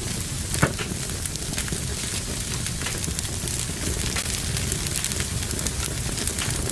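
Wood fire crackling in a fireplace: a steady low rush of flame with frequent small pops and crackles, and one sharper pop about half a second in.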